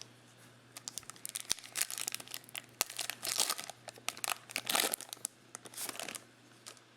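Foil wrapper of a trading-card pack crinkling as it is torn open and handled: a dense run of sharp crackles starting about a second in and stopping about a second before the end.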